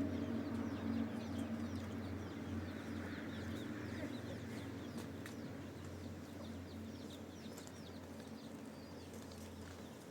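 Many birds chirping in quick, short, falling notes, over a low steady hum that fades away.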